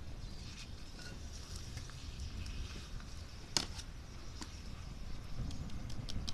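Small wood fire crackling in a fire pit made from an empty cookie tin: scattered sharp pops with one louder crack about three and a half seconds in, over a low rumble.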